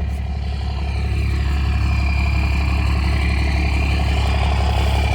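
Tow truck's engine idling with a steady low rumble.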